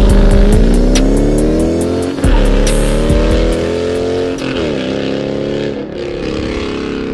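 Dodge Charger Scat Pack's 392 HEMI V8 running through an MBRP 3-inch race catback exhaust with no mufflers or resonators, accelerating hard. The revs climb, then drop at gear changes about two and four seconds in, and settle towards the end.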